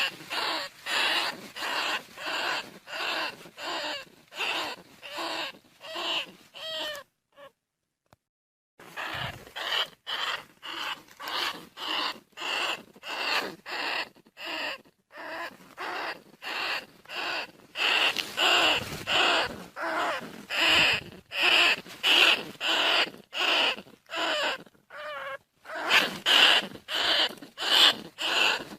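Bandicoot rat calls in a long, regular series of short calls, about two a second, with a short break about eight seconds in. They are a lure call for drawing bandicoot rats in.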